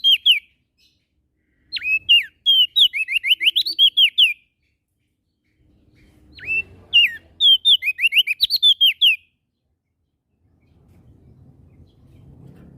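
Prenjak daun singing: phrases of rapid, high, sharply down-slurred whistled notes, each phrase about two and a half seconds long; one phrase is ending at the start, then two full phrases follow with short pauses between. A faint low rumble comes in near the end.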